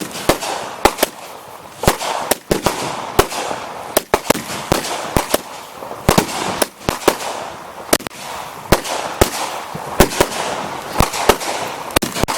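Consumer multi-shot fireworks cakes firing: a rapid, irregular string of sharp bangs with crackling and hiss between them.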